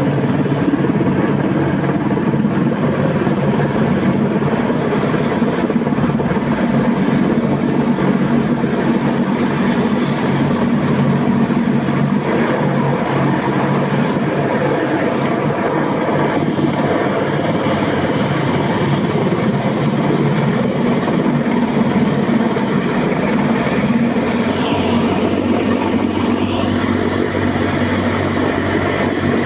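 Mi-26 heavy-lift helicopter running steadily: a constant loud drone of its turbine engines and rotor, with a thin high whine above it.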